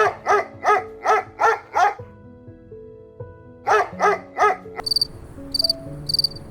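A dog barking in quick runs: six barks, a pause of about two seconds, then three more, over soft background music. Near the end a high, regular insect chirping starts.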